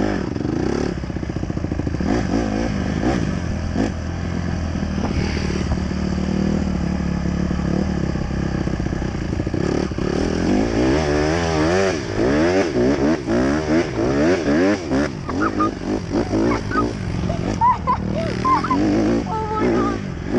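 Dirt bike engines running, held fairly steady at first, then revved up and down over and over from about halfway through as the bikes are ridden.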